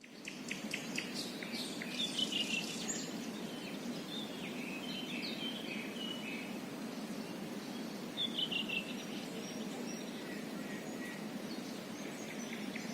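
Songbirds chirping in short high phrases, a few times over, above a steady low rushing background.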